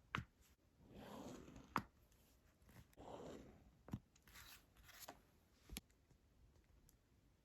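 Faint desk sounds of paper-journal work: three rasping strokes across paper or tape, each about half a second long, between four sharp taps or clicks of a pen or tool set down on the page.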